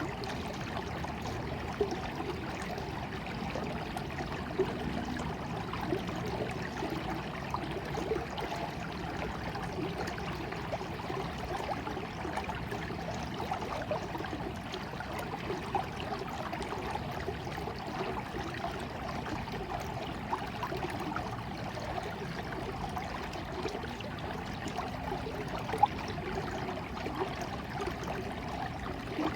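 Flowing water: a small stream babbling and trickling steadily, with a few brief splashes or drips standing out.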